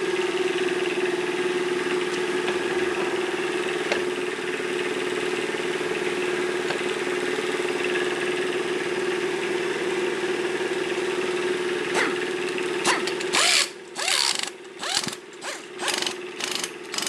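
Maruti Alto's engine running with a steady drone. About three-quarters of the way through, a string of loud, short rushing bursts breaks in over it.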